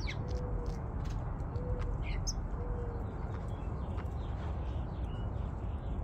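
Birds calling: a few short, sharp whistles sliding downward and three soft low cooing notes, over a steady low rumble in the background.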